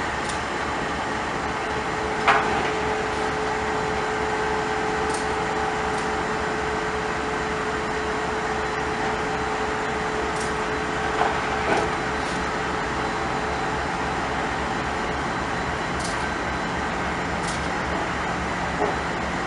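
Train cars rolling past steadily, with a faint steady whine in the first half and a few sharp clanks, two of them close together midway.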